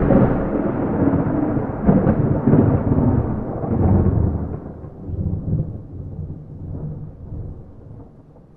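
A peal of thunder: a deep rumble, loud for the first four seconds with crackling peaks about two seconds in, then rolling away and fading.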